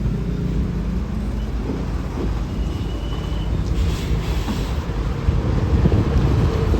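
A heavy road vehicle's engine running close by, a steady low rumble amid road traffic.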